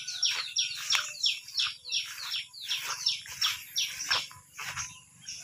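A bird chirping rapidly and repeatedly: short, sharp calls that slide downward in pitch, several a second, thinning out about four seconds in.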